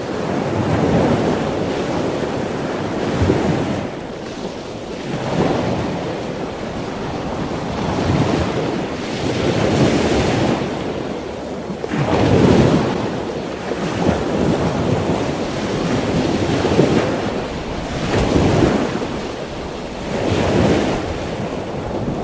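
Ocean waves breaking and washing in: a rushing sound that swells and falls back every few seconds.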